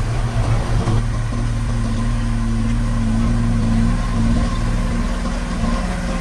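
Diesel engine of a construction machine (bulldozer or dump truck) running at a steady speed, a low even engine drone.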